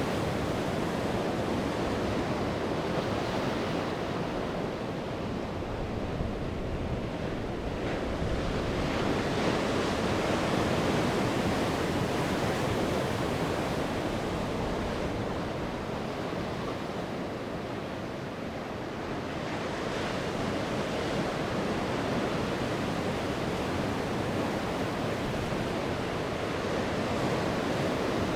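Sea surf washing onto the shore in a continuous rush of noise that swells and eases every five or six seconds as waves break.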